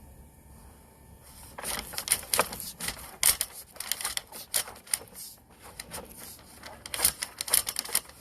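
Sewer inspection camera and its push cable being fed down a vent pipe, clicking and rattling against the pipe walls in quick irregular bursts that start about a second and a half in, with a short lull partway through.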